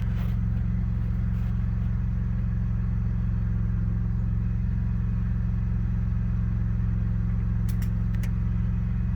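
Vehicle engine running steadily at idle, an even low hum with no revving. A few short clicks come near the end.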